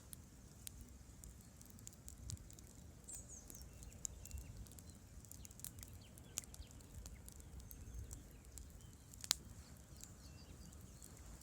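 Wood campfire crackling with irregular small pops and one sharp, louder pop about nine seconds in, over a faint low rush.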